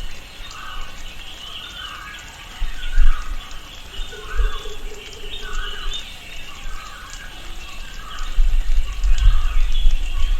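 Tropical rainforest ambience: birds calling, one short call repeating about once a second with busier, higher chirping over it. A steady lower tone sounds briefly in the middle, and a low rumble builds near the end.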